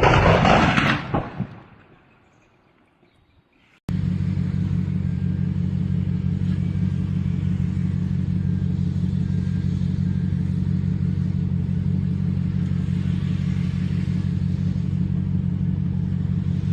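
A loud, noisy rush fades out over about two seconds. After a short quiet gap, a steady low helicopter engine and rotor drone cuts in abruptly and holds at one level.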